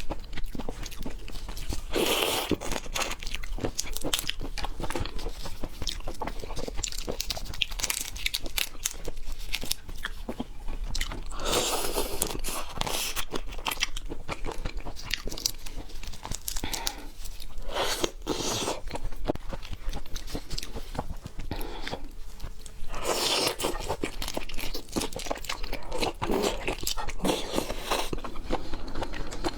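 Close-miked eating: steady chewing and biting full of small crisp clicks and crunches. Louder, noisier mouthfuls come every few seconds.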